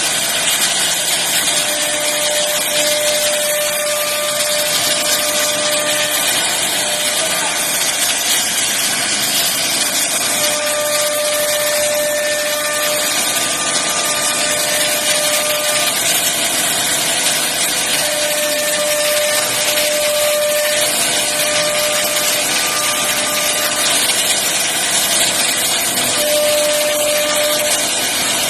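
CNC wood router carving a 3D bed design: a steady, loud, hissing cutting noise, with a whining tone that comes in for a few seconds at a time and drops out again, several times over.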